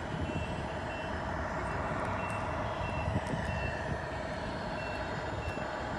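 Reversing alarm of a 1/14 Tamiya Scania R620 radio-controlled truck: short high beeps repeating evenly about twice a second over a steady simulated truck engine hum, the sign that the truck is backing up.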